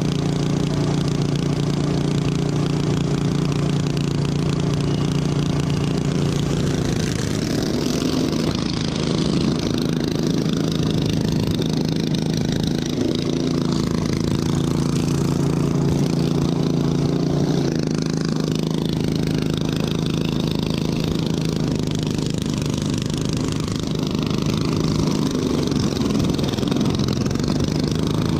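Racing lawn tractor's engine running steadily, close by. Its pitch shifts a few times as the throttle changes: it steps up after about 13 seconds and drops back a few seconds later.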